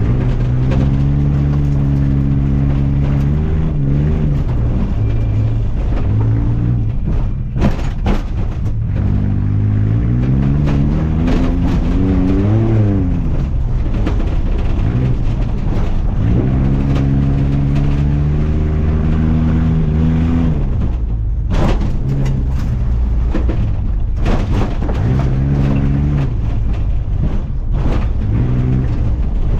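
Off-road truck engine revving hard, its pitch climbing, holding and dropping again and again as the throttle is worked, with a couple of sharp knocks about seven to eight seconds in.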